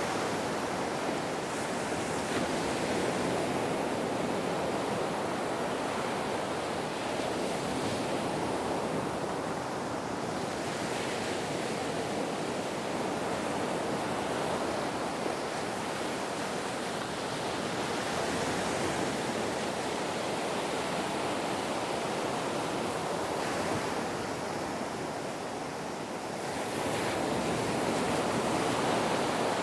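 Ocean waves washing on a shore: a continuous rushing surf that swells and ebbs slowly, easing off for a couple of seconds near the end before building again.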